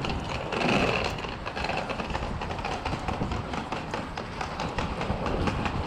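Footsteps walking briskly along a station platform, many light taps in quick succession over a steady low rumble.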